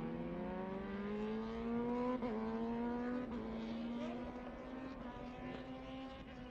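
Racing motorcycle engines running at speed, heard from trackside, their pitch climbing slowly and steadily as they accelerate, with brief wobbles in pitch about two and three seconds in.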